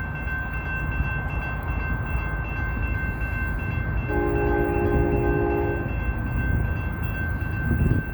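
Electronic grade-crossing bells ringing steadily while an approaching Union Pacific locomotive sounds its multi-chime air horn once, a blast of nearly two seconds about four seconds in. A low rumble runs underneath.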